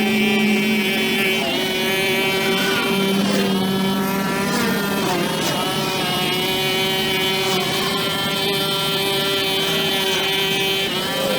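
Two-stroke brush cutter engine running at high speed, with a steady whine. Its pitch dips and wavers briefly a few seconds in and again near the end, as under the load of cutting.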